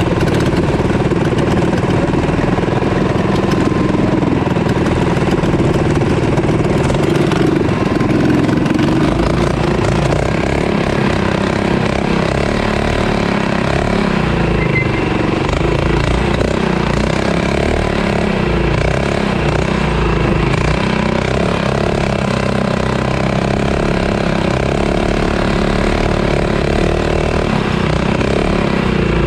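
Mini bike engine running under way, its pitch rising and falling with the throttle.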